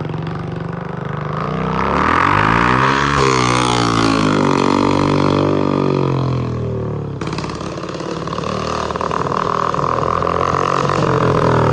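Kawasaki KLX125's single-cylinder four-stroke engine running straight-piped, with only the header pipe and no muffler. It rises in pitch to a peak about three seconds in, then falls back and runs on steadily.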